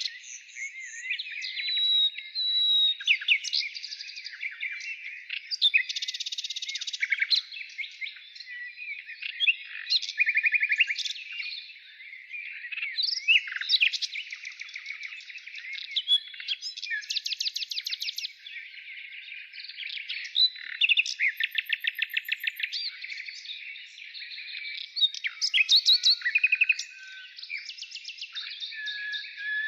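Songbirds singing: a dense, unbroken chorus of chirps, whistled glides, trills and fast runs of repeated notes.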